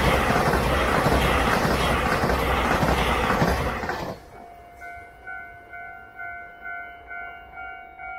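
Electric passenger train passing close by, its wheels rushing on the rails, until the last car clears about four seconds in. After that the level-crossing warning bell rings on its own, about two clear strokes a second.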